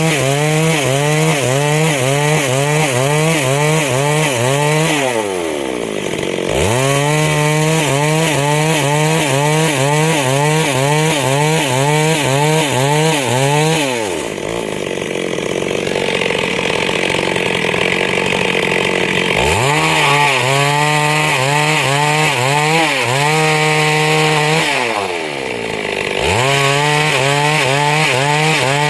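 Chainsaw running at high revs and cutting wood, its pitch wavering evenly up and down. Three times it drops back and revs up again; the second drop is a longer spell at lower revs.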